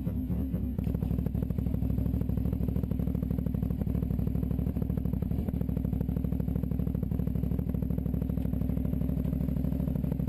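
Motorcycle engine running steadily, with a dense, even run of rapid firing pulses starting about a second in.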